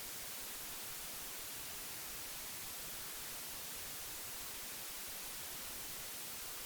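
Steady hiss of old magnetic tape: an even, unchanging high-pitched noise.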